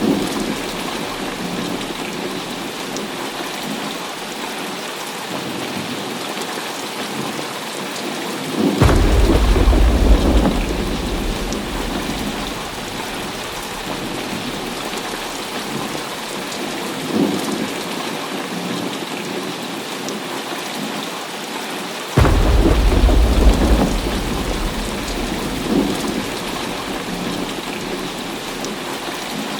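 Heavy rain falling steadily, with two loud thunderclaps, one about nine seconds in and another about twenty-two seconds in, each rumbling deeply for a couple of seconds. Fainter distant rumbles come in between.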